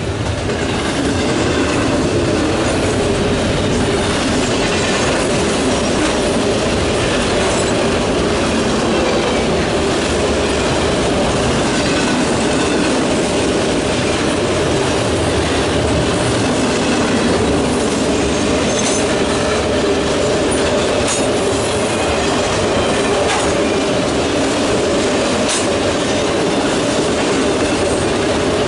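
Norfolk Southern intermodal freight cars, loaded with double-stack containers and trailers, rolling past steadily: a continuous loud rumble of steel wheels on rail.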